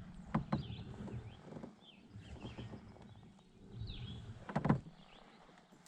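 Birds chirping in short calls around the pond, with a few light knocks, the loudest cluster a little over four and a half seconds in.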